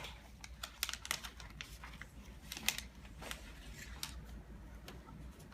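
Light, irregular clicks and taps, a few a second, over a faint steady low hum: small handling noises.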